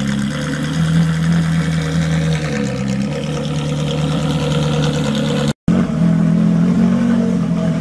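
Ferrari 458 race cars' V8 engines running at low revs as the cars creep forward, the pitch stepping up and down slightly with light throttle. The sound drops out for a moment a little past halfway, then the same engine note carries on.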